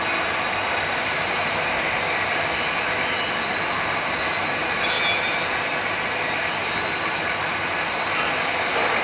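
Drilling machine running continuously: a steady, loud grinding noise with a faint high whine over it.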